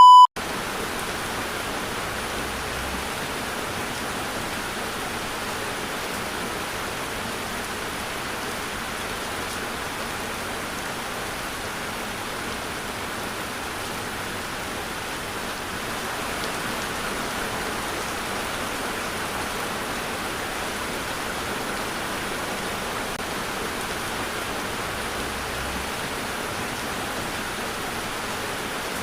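Steady rain, an even unbroken hiss that holds at the same level throughout, with a short loud electronic beep cutting off just at the start.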